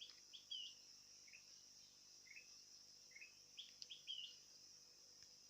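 Faint short chirping notes of a sooty-headed bulbul (kutilang), coming in small clusters a second or two apart, over a steady high insect buzz.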